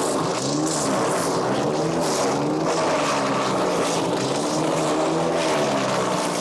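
Power King chipper shredder's Kohler CH440 single-cylinder engine running. Its pitch dips and recovers over and over as the chipper works.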